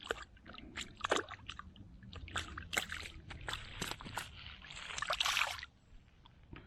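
Irregular splashing and sloshing of water with sharp clicks and knocks of handling, ending in a longer splashy rush about five and a half seconds in before it stops.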